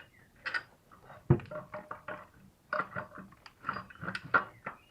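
Clinks, taps and knocks of metal on metal as an alternator is pulled forward and its mounting bolt is fitted, with one sharp knock just over a second in.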